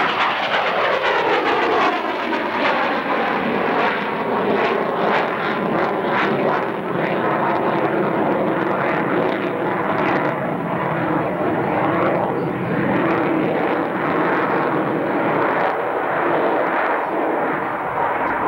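Jet noise from a CF-18A Hornet's twin turbofan engines as the fighter flies a square loop. The pitch sweeps down over the first couple of seconds as it passes, then the jet noise goes on loud and steady.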